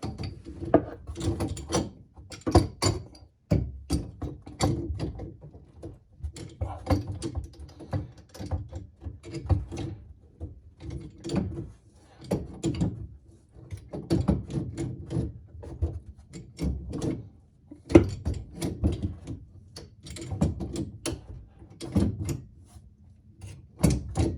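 Sink drain pipes and fittings being handled and tightened back together: irregular clicks, knocks and scrapes of the pipe parts and tools while the drain is reassembled.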